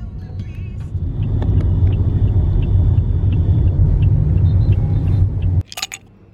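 Loud vehicle rumble heard from on board, a dense low drone that grows louder about a second in. It cuts off abruptly near the end, and a brief sharp clatter follows.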